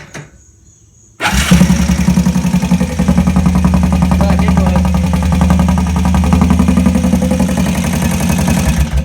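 2003 Honda 250 ATV's single-cylinder four-stroke engine starts about a second in and idles loudly with a fast, even putting beat through an exhaust with its muffler baffle removed, running like an open pipe; it is shut off suddenly near the end.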